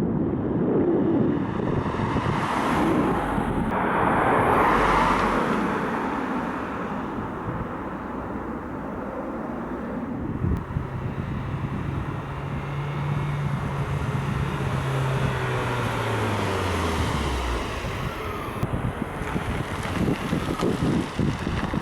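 Fiat 500X with a 1.4-litre turbo petrol engine driving at speed, with wind and road noise. About halfway through a steady engine note comes in, then drops steadily in pitch and fades as the revs fall off. Near the end there is gusty wind noise.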